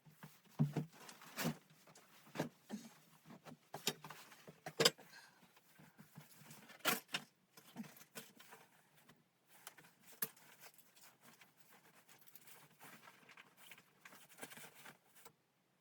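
Irregular light knocks and clicks at uneven intervals, a few of them sharper and louder, over faint background noise; the sounds stop near the end.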